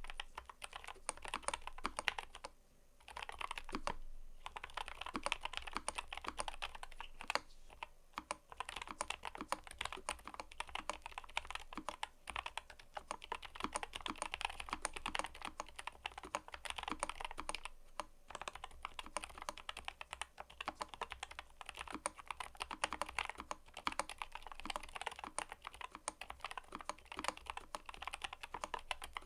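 Fast, continuous typing on a mechanical keyboard: a dense run of keystroke clicks and clacks, with brief pauses about three seconds in and again around the middle.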